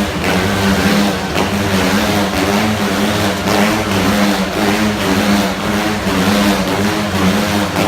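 Motorcycle engines running steadily as the bikes circle inside a steel globe of death, their pitch rising and falling gently about once a second.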